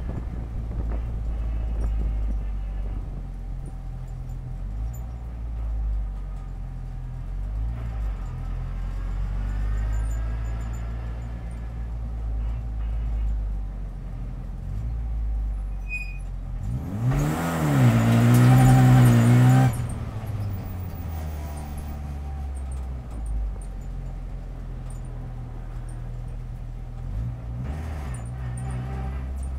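Race car's engine heard from inside the cabin, running low and steady while crawling in first gear. About halfway through it revs up loudly for about three seconds, pitch rising and falling back, then settles to the low hum again.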